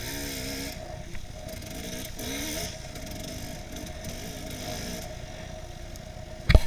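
Enduro motorcycle engine running on a trail, its pitch rising and falling as the throttle is opened and closed, with hiss and rattle picked up by a camera mounted on the bike. A sudden loud knock comes near the end.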